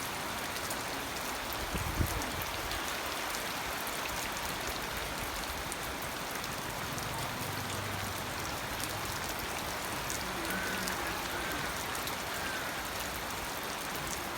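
Steady rain falling, an even hiss, with one brief low thump about two seconds in.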